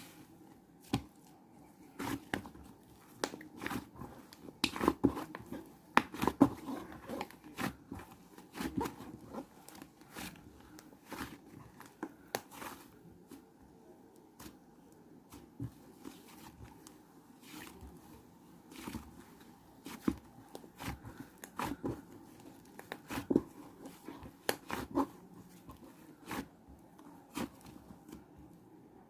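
Irregular crinkling, rustling and sharp clicks from something being handled, over a faint steady hum.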